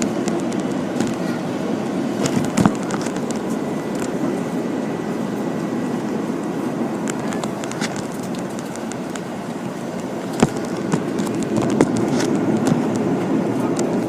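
Steady rumble of an Airbus A330-300's cabin heard from a window seat, with scattered clicks and rattles of the cabin fittings and a couple of louder knocks.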